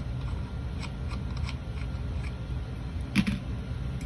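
Light metallic clicks of hands working the flywheel and its puller bolt on a Honda XR200 engine, then one louder metallic clunk about three seconds in as the flywheel comes free of the crankshaft. A steady low hum runs underneath.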